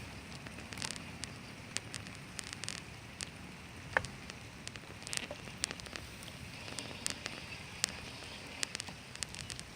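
Rain falling: a steady hiss with irregular sharp ticks of individual drops striking close by.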